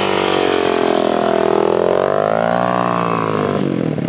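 Dirt bike engine running under throttle as it is ridden. Its pitch dips, climbs again, then drops away shortly before the end.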